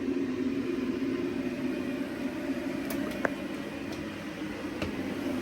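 1991 Zanussi washing machine filling for a wash: a steady hum and rush of water coming in through the inlet, with a few faint clicks.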